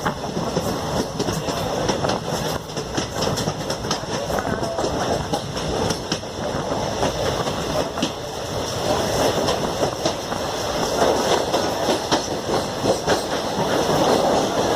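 Koyna Express passenger train in motion: wheels clattering over the rail joints over a steady running noise.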